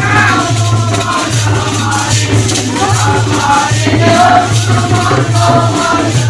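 Holi folk song music: wavering melody lines over rattling hand percussion and a steady low hum.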